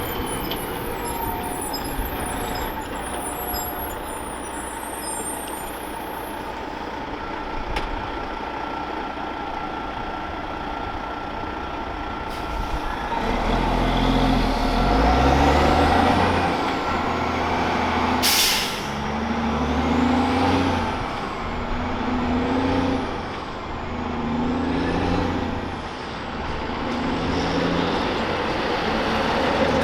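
Heavy diesel truck pulling away and accelerating: the engine builds from about halfway through and climbs in pitch and drops back several times as it shifts up through the gears. A short, sharp burst of air hiss cuts in partway through the acceleration.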